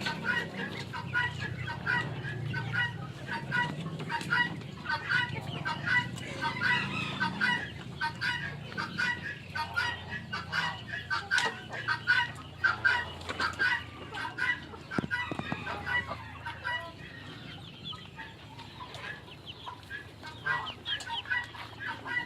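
A flock of chickens clucking, many short calls overlapping, thinning out for the last few seconds.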